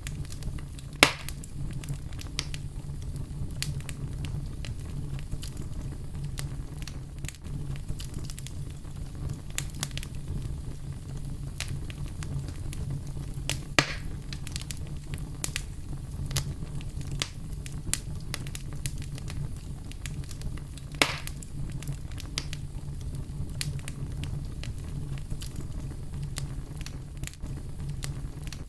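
Wood fire crackling: a steady low rumble of flames under scattered small crackles, with three louder pops, about a second in, near the middle and about two-thirds of the way through.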